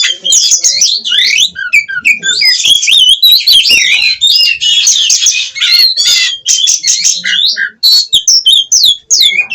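Oriental magpie-robin (kacer) singing loudly: a fast, continuous run of varied whistles and chirps with rapid rising and falling glides, broken by a couple of short pauses near the end.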